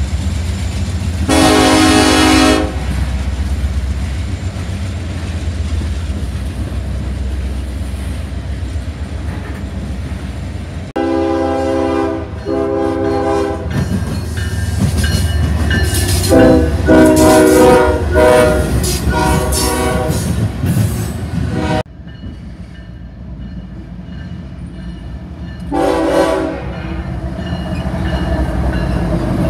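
Diesel freight trains passing close by with a steady rumble of wheels on the rails, while locomotive air horns blow. There is one blast near the start, two short blasts, then a run of several blasts in a row, and one more short blast near the end.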